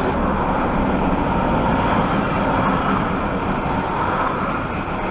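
Steady engine and road noise heard inside a lorry (HGV) cab, with no distinct events.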